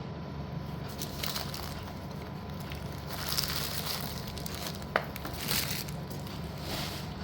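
Slate pencils being handled and unpacked: an uneven rustling crunch, with a single sharp click about five seconds in.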